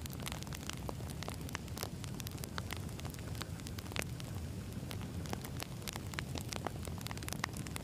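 Wood campfire burning: a steady low rumble of flames with frequent sharp crackles and pops from the burning logs.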